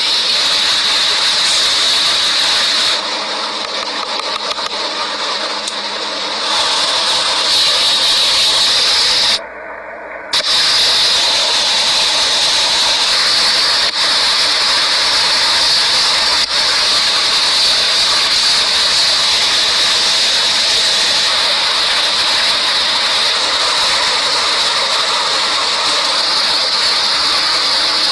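A steady, loud hiss with a shrill edge, dipping in level twice: once for a few seconds and once for under a second.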